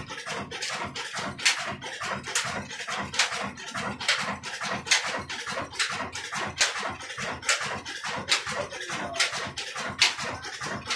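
Old Ruston Hornsby diesel engine running steadily while driving a flour mill (chakki). A sharp clack repeats about every 0.85 s over a faster, even beat.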